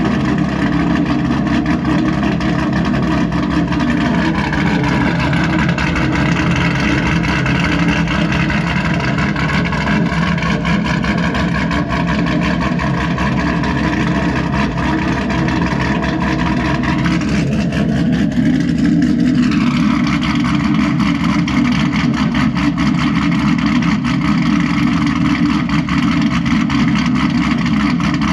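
2018 Camaro SS's 6.2-litre LT1 V8, fitted with a stage 3 cam and aftermarket headers, running steadily at a cammed idle, its note rising slightly a few seconds in.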